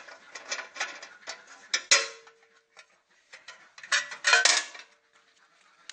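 Metallic clicks and clanks from the unpowered banana shredder's spinning cutter being turned and handled by hand. There is a hard metal strike about two seconds in and a clatter near the end of the fourth second, each leaving a brief ringing tone.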